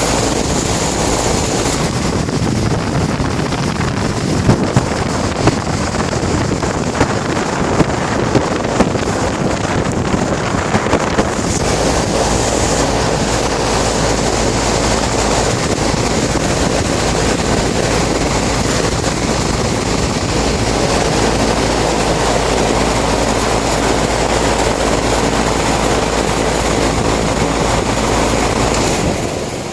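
Air-conditioner unit running up close, its fan blowing a loud, steady rush of air over a low hum, with a few light ticks in the first few seconds. The noise drops off sharply near the end.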